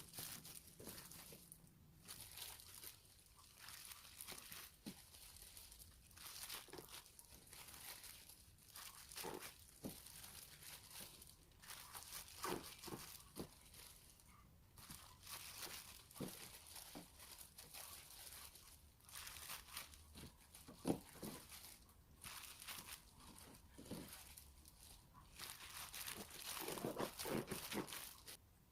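Faint crinkling and rustling handling sounds with scattered soft clicks, coming and going irregularly and busiest near the end.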